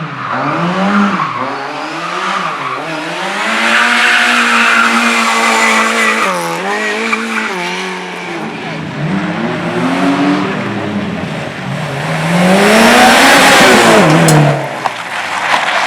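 Race car engine revved hard, its pitch rising and falling repeatedly as the driver works the throttle and gears, with tyre squeal as the car slides. It is loudest near the end, where the pitch climbs and then drops away.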